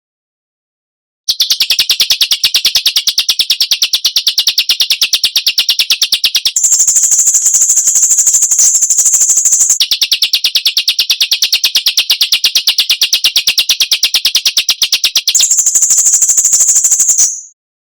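Bird-training recording of harsh, sharp rasping bird calls (besetan), a very fast, evenly repeated train of notes. It starts about a second in, jumps to a higher pitch around six and a half seconds, drops back around ten, rises again near fifteen and a half, and stops shortly before the end.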